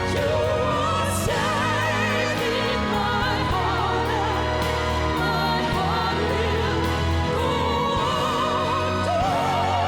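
Several voices singing long held notes with wide vibrato in a classical-crossover, operatic style over sustained band and orchestral backing.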